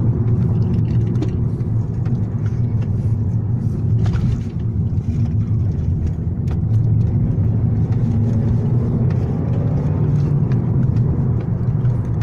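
Engine and road noise inside the cabin of a Volkswagen Golf Mk6 GT while it is being driven, from its 1.4 TSI petrol engine: a steady low drone that briefly dips about four seconds in.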